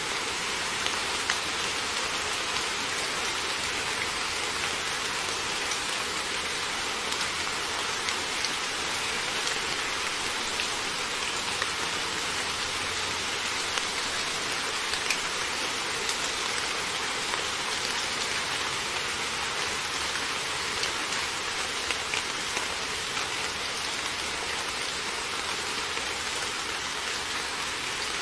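Heavy rain falling steadily, a dense hiss scattered with the sharp ticks of individual drops striking a surface.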